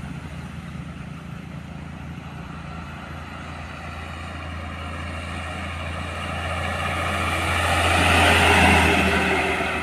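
A truck approaching and passing by, its diesel engine droning low under rising tyre noise that swells to a peak near the end and then fades.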